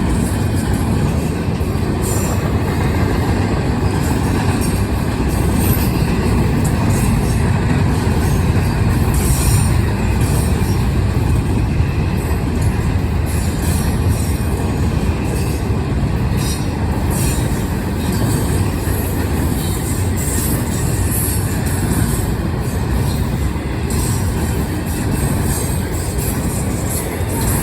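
Long Norfolk Southern freight train's cars rolling past close by: a steady rumble of steel wheels on the rails, with short high squeaks and clicks from the wheels now and then.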